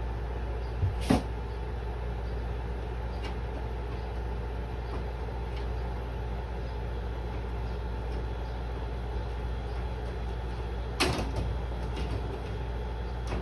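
Window air conditioner running: a steady hum and rush of air, with two sharp knocks, one about a second in and one about eleven seconds in.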